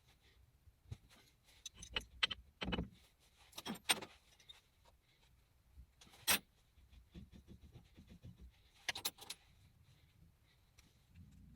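Metal tools or parts being handled and set down: scattered clinks and knocks, the loudest about six seconds in.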